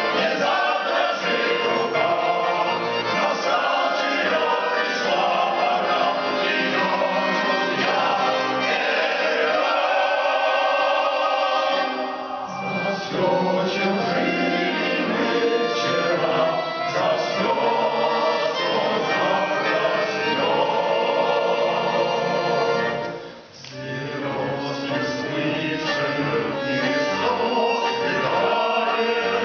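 Male vocal ensemble singing a slow song in harmony, with a short break between phrases about two-thirds of the way through.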